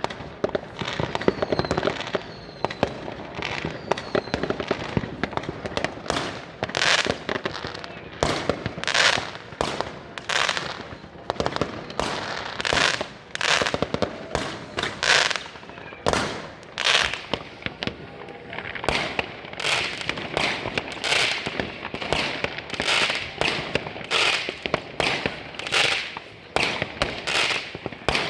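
New Year's Eve fireworks going off in a dense, continuous barrage of overlapping bangs, pops and crackling bursts, with a few short falling whistles in the first few seconds.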